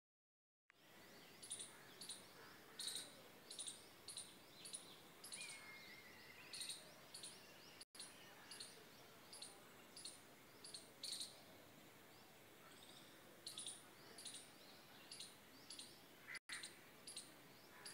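Small birds chirping in the garden trees: short, sharp, high chirps repeated one to two times a second, over a faint background hush.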